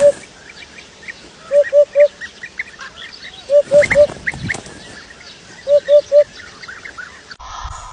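A bird calling short low notes in groups of three, about one group every two seconds, over a background of many small birds' high chirps. A different, noisier sound cuts in near the end.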